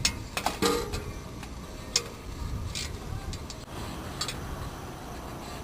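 Scattered metallic clicks and knocks of hand tools working on the engine's manifold bolts, about half a dozen, irregularly spaced, over a low steady rumble.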